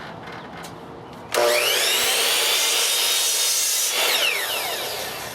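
A power woodworking machine switches on suddenly, runs loud for about two and a half seconds, then winds down with a falling pitch.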